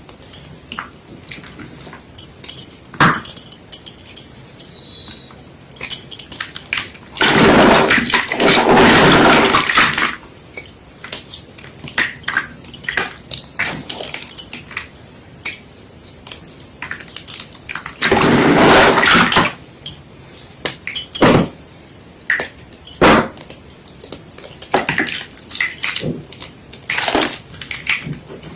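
White gym chalk, wet with water, being crushed and crumbled by hand: a run of sharp crunches and crackles, with two longer, louder stretches of crumbling about seven seconds in and again about eighteen seconds in.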